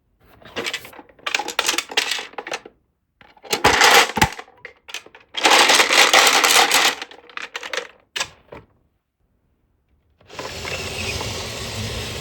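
Glass marbles rolling and clattering down HABA wooden marble-run track, in bursts of rapid rattling separated by short silences. A steadier, continuous rumble begins about ten seconds in.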